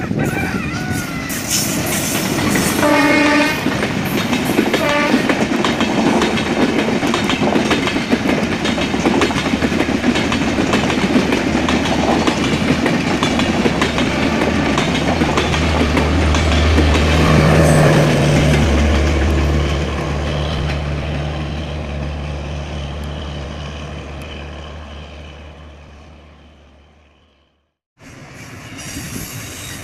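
Diesel-hauled passenger train passing close by. The locomotive's horn sounds briefly about three seconds in, then the coaches clatter over the rails with a low drone that is loudest around the middle and fades away. The sound cuts off near the end and a quieter train sound begins.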